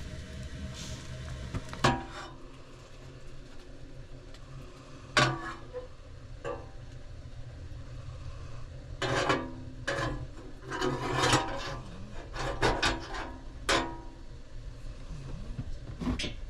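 Series of sharp wooden knocks and clatters, a few bunched close together around the middle, over a steady low background rumble.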